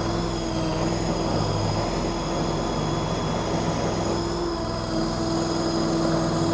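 KYMRON YTL 23 stand-on mini skid steer running at raised throttle as it is driven and turned in place, the engine hum overlaid by a steady whine.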